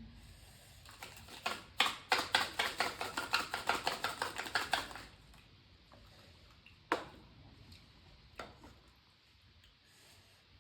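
Close-miked eating sounds: a quick run of crisp crunching clicks for about four seconds, then two single clicks.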